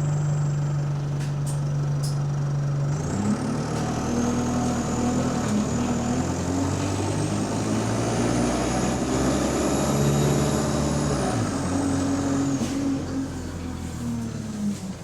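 Bus engine heard from inside the passenger saloon: idling with a steady hum, then from about three seconds in it pulls away, its note and a high whine rising as it accelerates, easing off about twelve seconds in and settling back to a steady hum.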